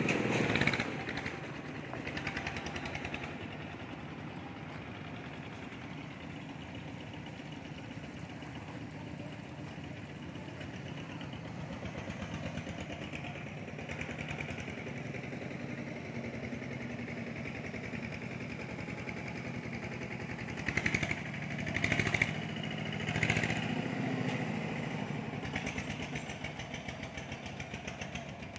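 An engine running steadily with a fast, even pulse, with a few short louder surges about three quarters of the way through.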